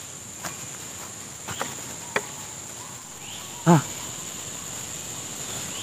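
Steady high-pitched insect chorus of crickets in tropical forest, with a few faint taps and one louder short knock about three and a half seconds in.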